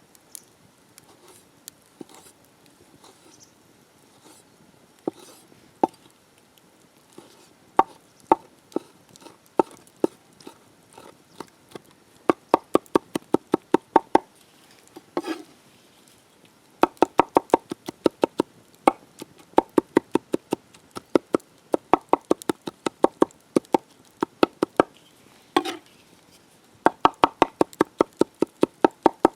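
Knife chopping food on a cutting board. A few scattered strokes give way to quick runs of rapid, even chops, several a second, broken by short pauses.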